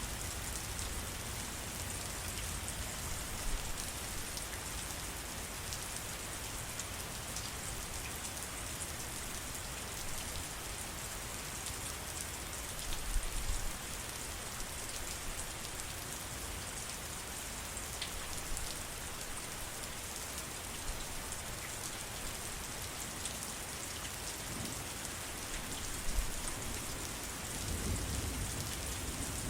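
Steady heavy rain falling on surfaces. A low thunder rumble dies away at the start, and brief low rumbles come again about halfway through and near the end.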